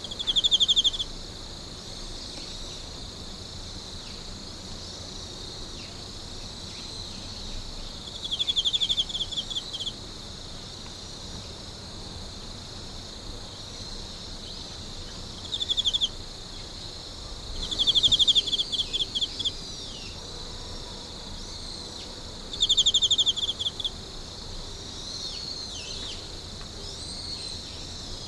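Night chorus of insects, a steady high shrill, with a nearer insect singing louder pulsed trills about a second long, five times at irregular intervals.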